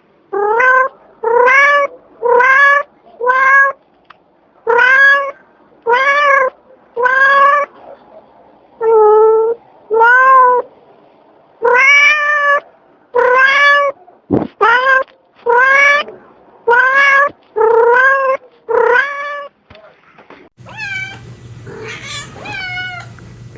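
Domestic cat meowing over and over: nearly twenty short meows, each rising in pitch, about one a second. Near the end the sound changes to higher, more varied meows over a steady low hum.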